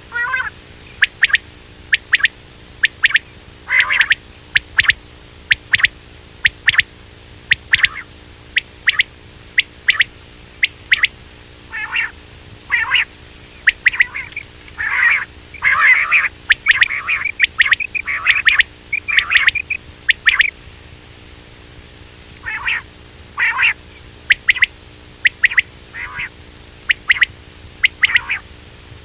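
Quail calling: a rapid series of short, sharp call notes, some single and some in quick clusters, busiest around the middle. A faint steady hum runs underneath.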